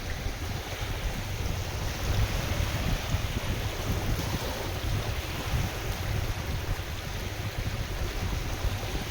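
Wind buffeting the microphone in an uneven low rumble, over the steady wash of lake waves.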